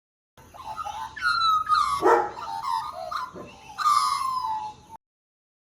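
Australian magpie carolling: a run of pitched, falling calls, with a long downward-sliding call about four seconds in. The song starts and stops abruptly.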